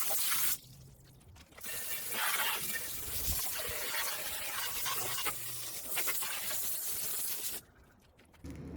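Garden hose spraying water onto a mini bike: a steady hiss that cuts off briefly about half a second in, starts again a second later and stops abruptly near the end, as the spray is switched off and on.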